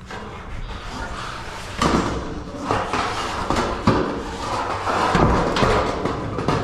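Several sharp knocks and thuds amid rough scraping and rattling: metal roofing panels and trim being handled and set on the roof.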